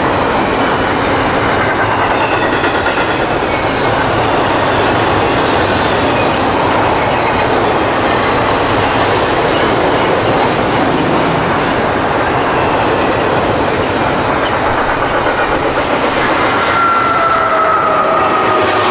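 Double-stack container freight train rolling past at close range, a steady loud rush of wheel and car noise. Near the end a high whine sets in, falling slightly in pitch.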